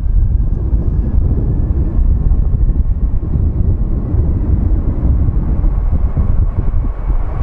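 Airbus A350-900's Rolls-Royce Trent XWB jet engines at takeoff power: a loud, steady deep rumble with a faint thin whine above it.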